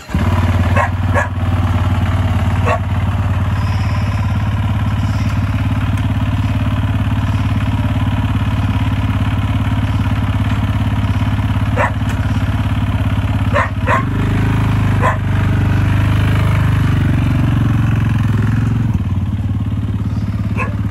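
A sidecarcross outfit's motocross engine starts and then runs at a steady idle. Its note wavers for a few seconds about two-thirds of the way through. A handful of sharp clicks and knocks come over it.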